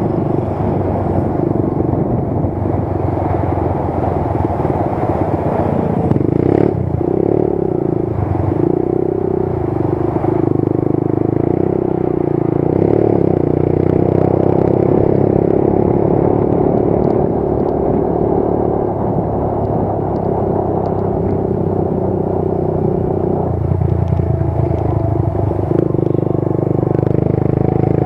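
Motorcycle engine running steadily while riding, with road and wind noise. The engine note shifts briefly about a quarter of the way through and again near the end.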